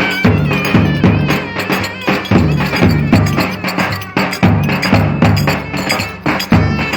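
Traditional Turkish dance music played live: a steady, driving drum beat under a wavering melody.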